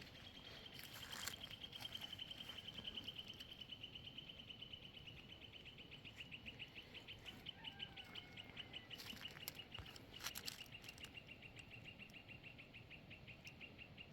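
A faint, high, evenly pitched animal trill that runs on without a break. Its rapid pulses slow gradually to about six a second, and a few soft clicks fall near the middle.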